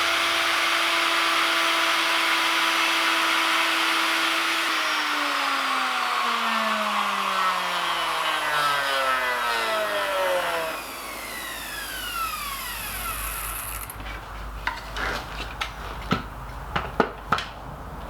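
Wood router with a carbide bit, running steadily over the top of an anvil stump, then switched off about five seconds in; its pitch falls as it winds down over about six seconds. A hiss carries on briefly after, then a few light knocks near the end.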